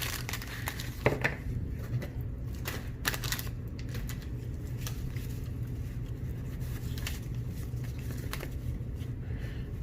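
Baseball trading cards being flipped through by hand: scattered light clicks and slaps of card against card, more frequent in the first few seconds, over a steady low hum.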